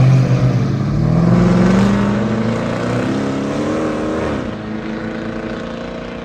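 Car engine accelerating hard, its pitch climbing steadily for about four seconds, then falling off sharply as the driver shifts or lifts, and running on lower as the sound fades.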